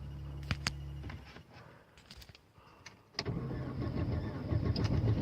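A car's cold start in severe cold: a steady electric hum with a couple of sharp clicks, a short quieter pause with small clicks, then about three seconds in the engine fires and runs roughly and unevenly.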